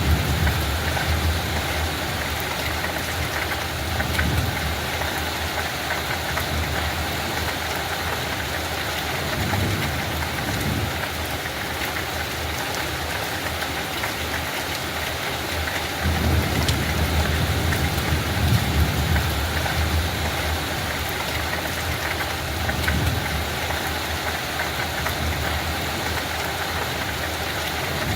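Steady rain falling, an even hiss, with low rumbles that swell and fade several times, the strongest about two thirds of the way in.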